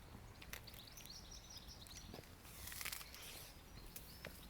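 Small birds chirping faintly over steady outdoor background noise, with a brief hiss a little before three seconds in.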